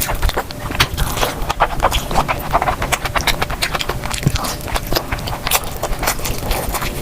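Close-miked eating sounds: chewing and wet mouth clicks in a rapid, irregular run.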